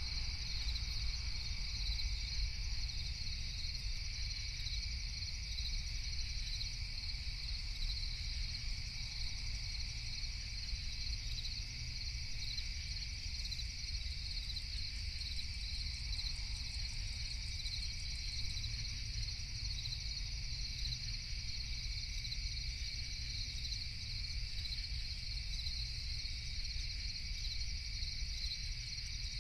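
A steady night chorus of crickets, a high continuous trilling with no breaks, over a low steady rumble.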